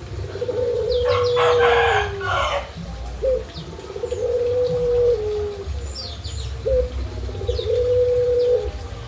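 Birds calling: three long, drawn-out low calls a few seconds apart, each opening with a short rising note and dropping at the end, with a louder, rougher call over the first one and short high chirps in between.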